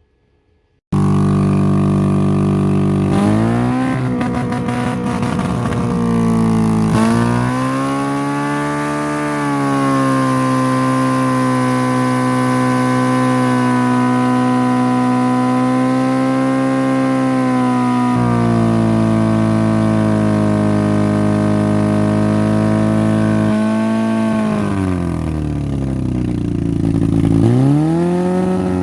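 Honda Civic four-cylinder engine running and being revved, starting suddenly about a second in; it climbs in pitch twice, holds a steady high rev for several seconds, then drops and rises again near the end.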